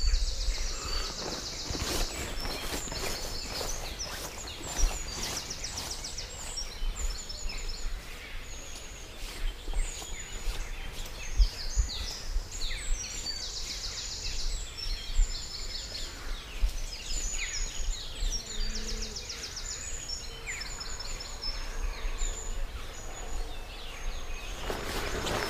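Several birds singing outdoors, a run of high trills and quick repeated notes one after another, over a low steady rumble.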